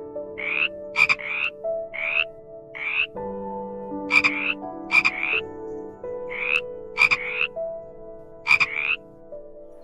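A frog croaking repeatedly: about a dozen short, rising calls, singly or in quick pairs, roughly one every half second to second. Soft held notes of background music lie underneath.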